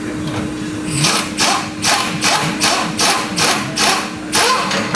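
A quick run of about nine short, sharp tool strokes on metal, two or three a second, starting about a second in, over a steady hum.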